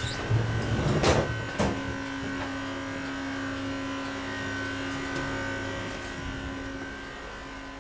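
Steady electric hum from a standing double-deck regional train's onboard equipment inside the passenger car, holding a fixed pitch. A few knocks and clatters come in the first two seconds.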